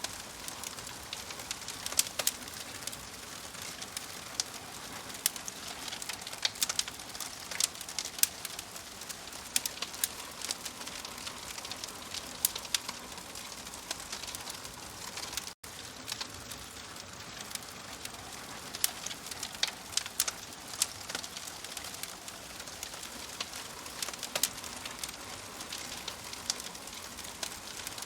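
Wood fire crackling: a steady hiss with frequent sharp pops and snaps from the burning wood. The sound cuts out for an instant about halfway through.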